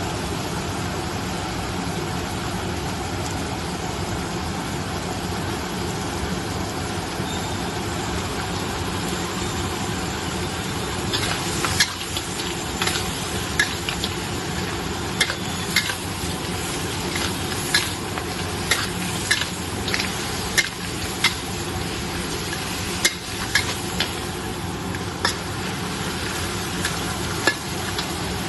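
Crab being stir-fried in a pan: a steady sizzle over a low, continuous roar. About eleven seconds in, a utensil starts clacking against the pan at irregular intervals, roughly once or twice a second.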